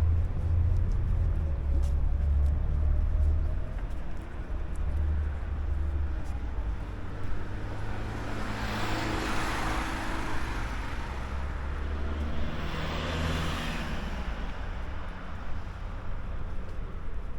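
Road traffic: a steady low vehicle rumble, with two vehicles passing by, about nine and thirteen seconds in.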